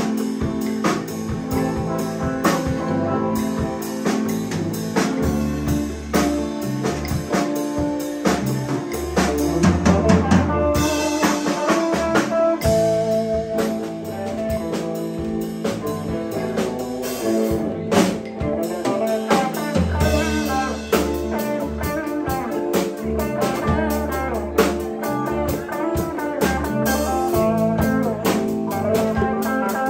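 Live blues band playing an instrumental stretch: electric guitar over drum kit and bass, with steady drum hits throughout.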